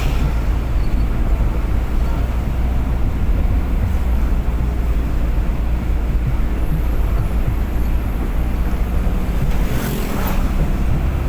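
Steady low rumble of a vehicle driving fast on the highway, engine and road noise, with two brief whooshes of traffic passing: one right at the start and one about ten seconds in.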